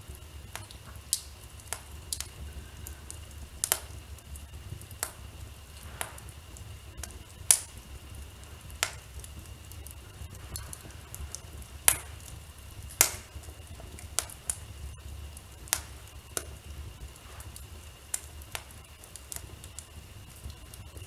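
Wood fire in a fireplace crackling: irregular sharp pops and snaps, two louder ones about 7.5 and 12 seconds in, over a low steady rumble of the flames.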